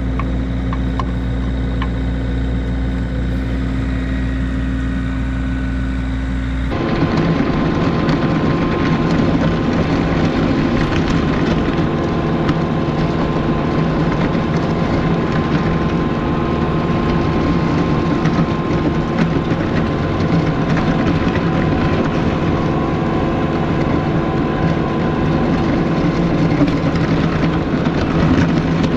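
Kubota LX compact tractor's diesel engine running steadily. About seven seconds in, the sound changes abruptly to a louder, rougher engine run that holds to the end.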